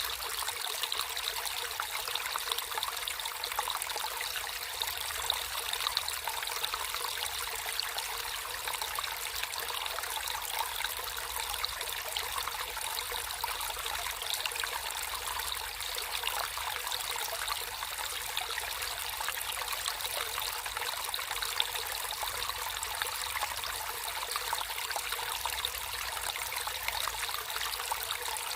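Water flowing and trickling steadily, a constant bright splashing with no pauses or single events standing out.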